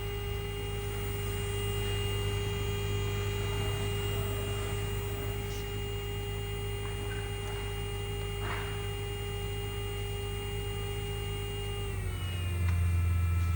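Lenze MCS servo motor running under test with a steady whine over a low hum. About twelve seconds in, the whine's pitch falls as the motor's speed changes.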